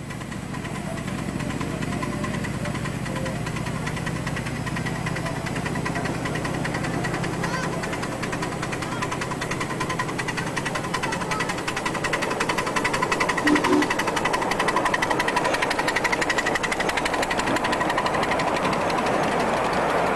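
Miniature ride-on railway train running on its track, a steady mechanical sound with a fast even beat that grows louder toward the end as it comes closer.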